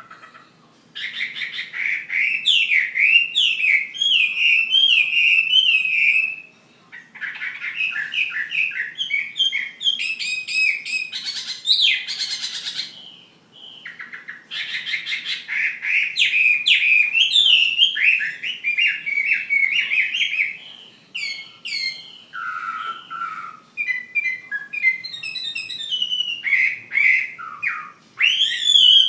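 Chinese hwamei singing loudly: long, varied phrases of rapid whistled and slurred notes. It sings in four bouts with short breaks between them.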